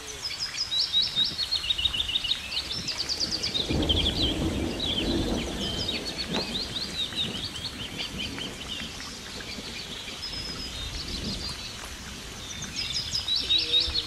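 Songbirds singing: quick runs of high chirps and trills, over a steady background hiss that swells briefly about four seconds in.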